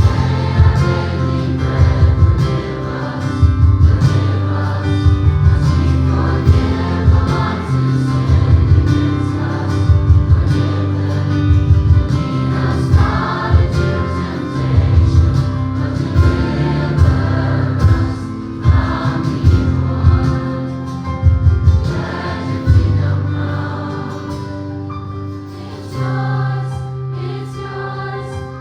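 A choir singing gospel worship music with a band: steady bass and a regular drum beat under the voices.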